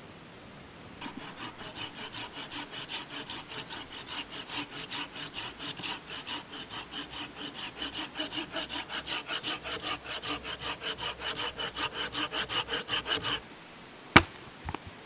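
Hand saw cutting through wood in quick, even strokes, about five a second, getting slightly louder before stopping abruptly. Shortly after comes a single sharp crack.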